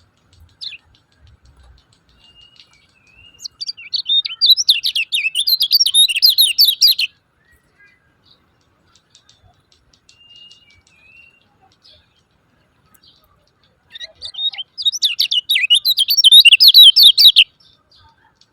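Kecial kuning (a white-eye) giving its 'ciak ciak' chattering call: two long bursts of rapid, sharp chirps a few seconds apart, with a few soft single whistled notes between them.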